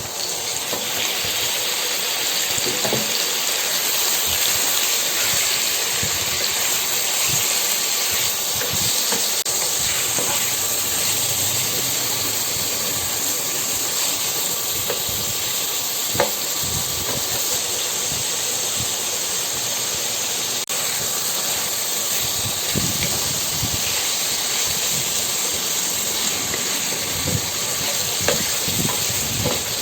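Food sizzling in hot cooking oil in a pan: a steady hiss that starts suddenly, as ingredients go into the pan, with scattered small pops and crackles.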